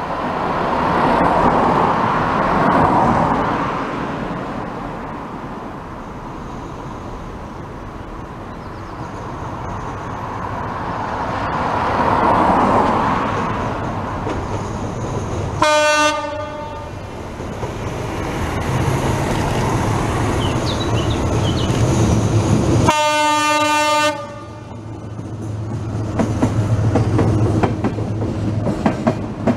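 A locomotive-hauled passenger train approaching and passing close by, sounding its horn twice, first a short blast and then a longer one. A low rumble builds as it nears, with wheels clicking over the rail joints as the coaches go past.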